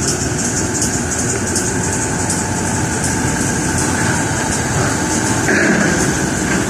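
Heavy construction machinery engine running steadily, with a faint rhythmic high clatter about three times a second.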